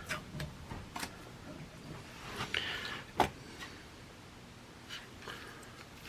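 Faint hand-work noises at a water heater's gas valve: scattered light clicks and short scrapes, with one sharper knock about three seconds in.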